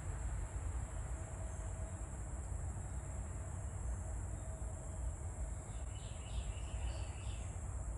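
Outdoor background: a steady high-pitched insect drone over a low rumble, with a few faint chirps about six seconds in.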